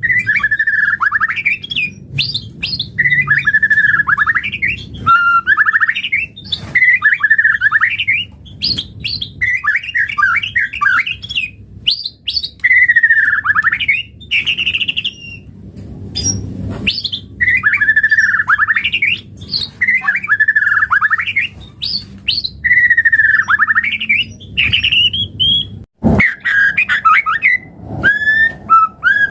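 White-rumped shama (murai batu) singing, repeating one short warbling phrase over and over, about one every second and a half, with a brief break around the middle. Near the end there is a click, then quicker, higher notes.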